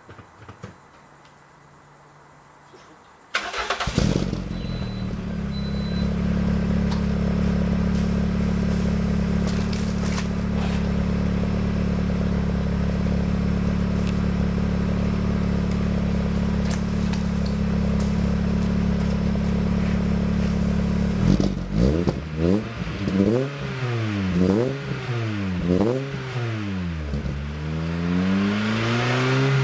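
A Lada Kalina 2 Sport's four-cylinder engine starts about three seconds in and idles steadily through its reworked exhaust with chambered muffler and resonator. Over the last several seconds it is revved in a series of quick blips. The exhaust sound is quieter than on the straight-through system.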